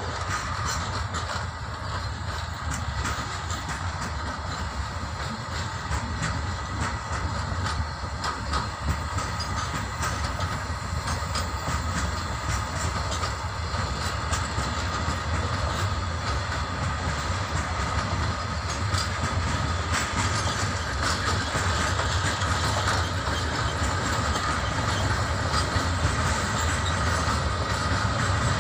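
Empty flat wagons of a freight train rolling past, steel wheels clacking over rail joints in a steady rumble with a faint steady whine above it, slowly growing louder.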